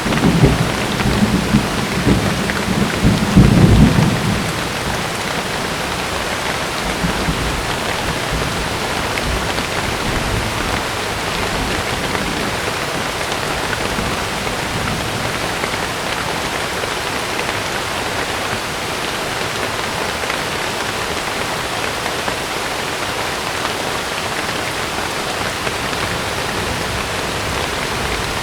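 Heavy rain falling steadily on a tent, with a clap of thunder rumbling loudly in the first few seconds before fading back into the rain.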